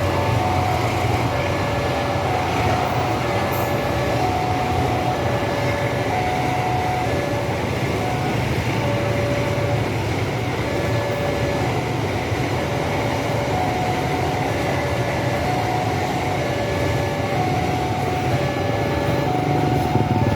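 A long, heavy freight train rumbling steadily past a railway level crossing, its wagons rolling by. Over it the crossing's electronic warning signal sounds throughout, repeating short alternating tones.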